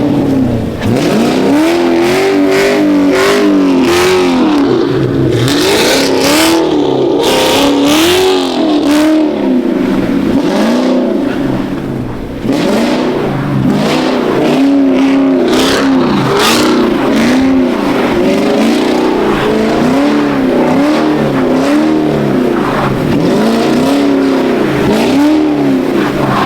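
A car engine revving up and falling back over and over, roughly once a second, as the car spins its wheels and slides in snow.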